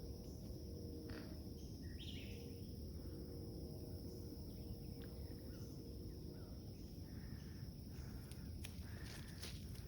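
Faint forest ambience: a steady high insect drone with a few short bird chirps, about two seconds in and again in the middle, over a low rumble.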